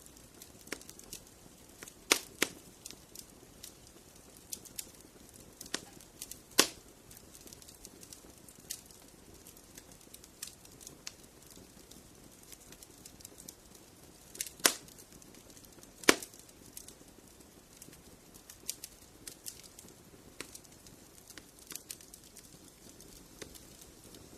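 Wood fire in a fireplace crackling: a low hiss with scattered sharp pops and snaps, the loudest about 2, 6.5, 14.5 and 16 seconds in.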